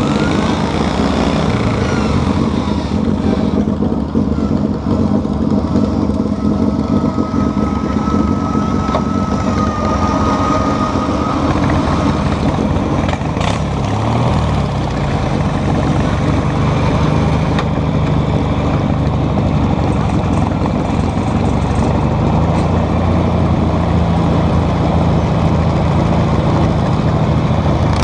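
Racing tractor engines running loud and hard, more than one at once. The engine note steps up in pitch about halfway through and again later on.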